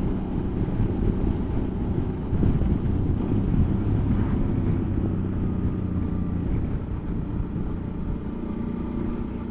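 Suzuki V-Strom motorcycle engine running steadily under way, a constant drone with road noise.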